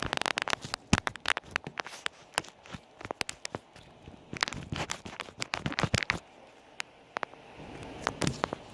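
Slime being squished and pressed by hand, giving a run of wet crackles and pops. They are busiest in the first second and again around the middle.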